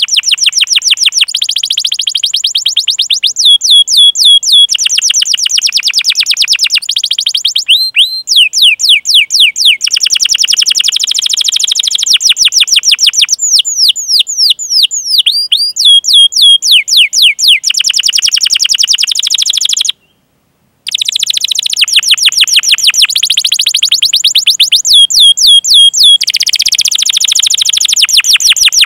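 Domestic canary singing long, fast rolling trills: rapid runs of repeated sweeping notes, strung into phrases that change in pitch and speed. The song breaks off in a brief total silence about twenty seconds in, then resumes.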